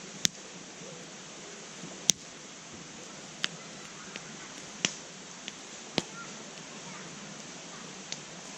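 Wood campfire in a fire pit crackling, with sharp pops at irregular intervals over a steady hiss.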